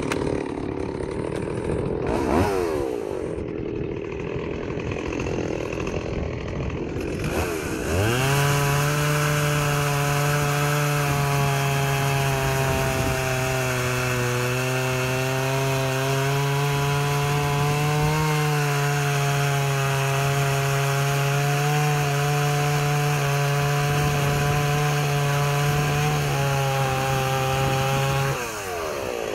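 Stihl 038 Magnum two-stroke chainsaw running at low speed, with a quick blip of the throttle about two seconds in. From about eight seconds in it is held at high revs for some twenty seconds, sawing through wood, and then drops back to low speed near the end.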